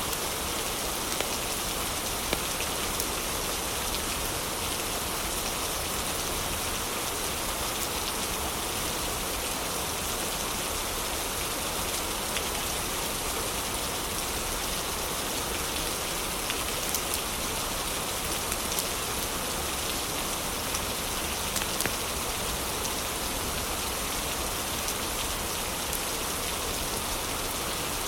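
Steady heavy rain, an even hiss of falling water, with a few faint sharp clicks scattered through it.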